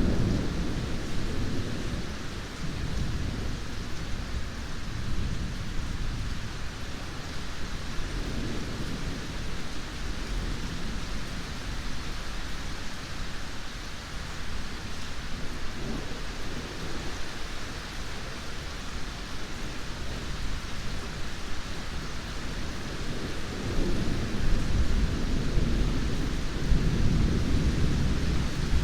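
Steady rain with rolling thunder rumbling low underneath. The thunder swells near the start, again a few times in the middle, and builds up louder over the last few seconds.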